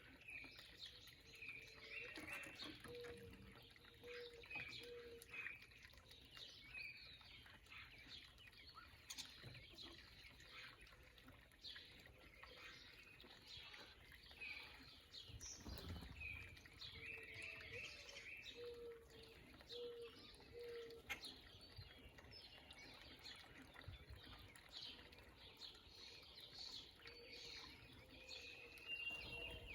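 Backyard birds chirping and calling faintly, short notes repeated in quick groups again and again.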